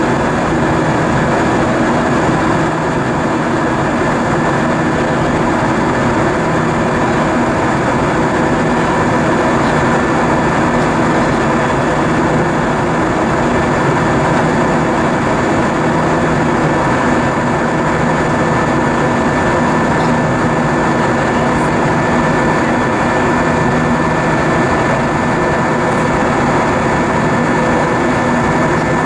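Steady cabin noise inside an Airbus A320-232 airliner: the drone of its IAE V2500 jet engines and rushing air, with a few steady tones over it.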